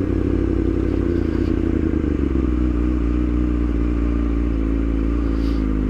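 Yamaha R6 inline-four engine running steadily at cruise, its pitch easing down slightly and then holding, over a low wind rumble on the microphone.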